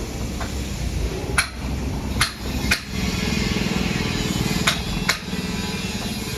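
A series of about five sharp knocks of hard objects, irregularly spaced, over a steady low hum.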